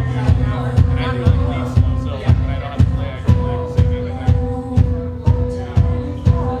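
Live band music: a steady drum beat of about two hits a second under long held notes.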